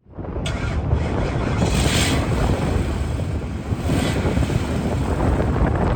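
Wind buffeting the microphone: a loud, heavy low rumble with stronger gusts about two seconds in and again about four seconds in.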